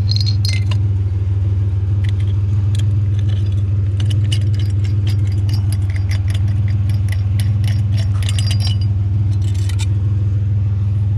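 Truck engine idling steadily, with repeated light clinks and jingles of glass globes and metal chandelier parts being handled and taken apart.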